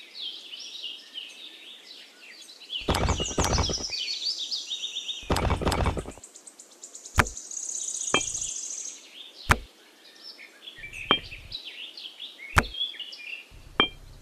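Birds chirping throughout, over small sharp clicks and knocks as miniature clay bricks are set down on sand one at a time, with two short stretches of rapid clattering handling a few seconds in.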